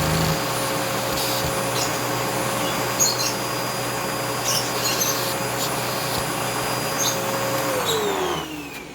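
Vacuum cleaner motor running steadily as it sucks air through a LEGO vacuum piston engine, with faint clicking from the engine's parts. About eight seconds in, the motor winds down.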